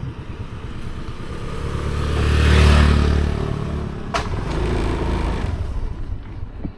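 Motorcycle engine running and revving up, loudest about two and a half seconds in, then easing back, with a sharp click about four seconds in.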